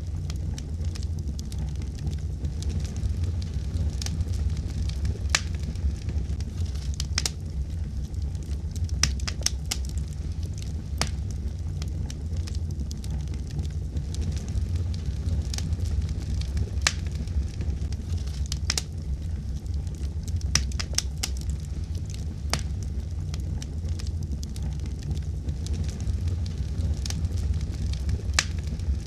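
Wood fire burning in a fireplace: a steady low rumble of the flames with irregular sharp crackles and pops, several of them in quick clusters.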